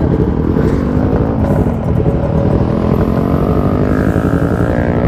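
Yamaha RX-King two-stroke motorcycle engine running at a steady road speed through its exhaust, with the engine note drifting up and down slightly.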